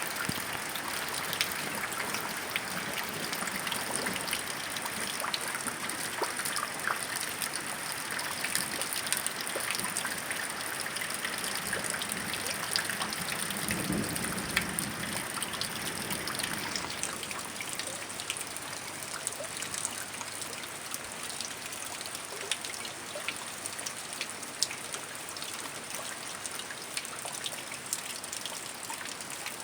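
Heavy rain falling steadily, with many individual drops dripping and splashing close by, easing slightly past the halfway point. A brief low rumble rises and fades about halfway through.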